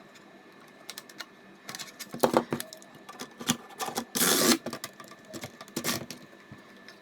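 Scattered plastic clicks and clatter from a cheap spring airsoft M4 being handled, with a brief louder rush of noise about four seconds in.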